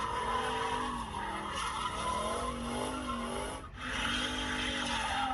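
Car engine revving while its tyres squeal and skid as it drifts, with the engine pitch rising and falling. A brief break about two-thirds of the way through, after which the engine and tyre noise continue.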